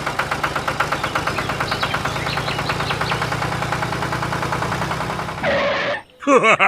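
A tractor engine chugging steadily at idle, about eight beats a second. It cuts off suddenly about five and a half seconds in, after a brief hiss.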